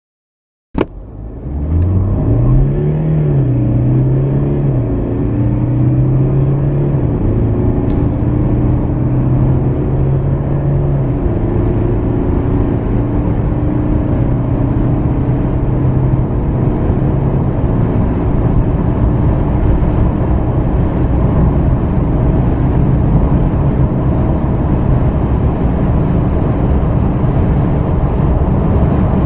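A four-cylinder turbodiesel car accelerating hard through the gears from a standstill. The engine note rises and drops back at each upshift, then is gradually buried under steady wind and tyre noise as speed builds.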